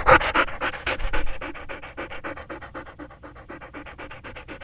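Dog panting fast, about six or seven quick breaths a second, louder for the first second and a half and then softer.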